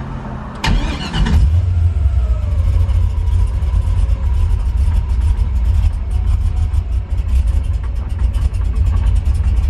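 The LS V8 crate engine in a 1999–2004 Mustang is cranked by its starter and catches about a second in, then settles into a steady, deep idle.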